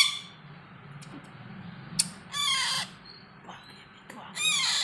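Parrot squawking: two short calls about two seconds apart, the second near the end, with a click just before the first.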